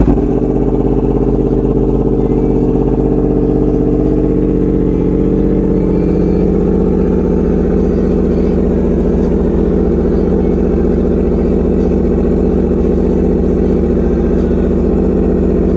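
Yamaha R1 inline-four motorcycle engine idling steadily on a very cold start, just after firing up.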